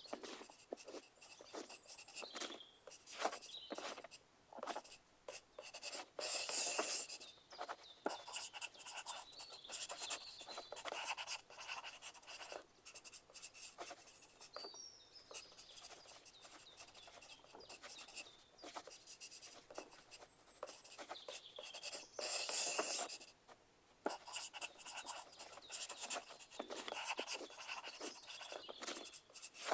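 Pencil writing on paper: a steady run of short, irregular scratching strokes, with two longer, louder stretches about six and twenty-two seconds in.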